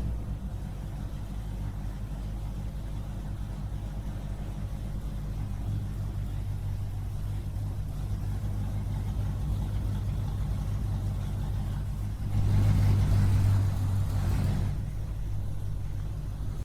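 Small engine running steadily at a low, even drone. It grows louder for a couple of seconds about twelve seconds in, then settles back.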